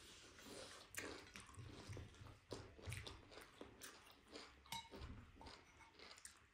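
Faint chewing and mouth sounds of people eating, with many small, scattered clicks.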